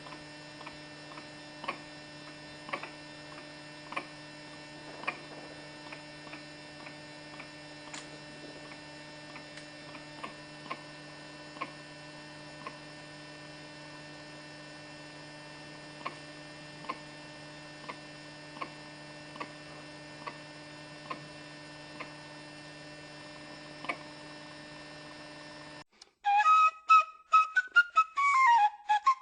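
A steady electrical hum with many overtones, broken by short sharp ticks roughly every half second to second at irregular spacing. Near the end it cuts off and flute music begins.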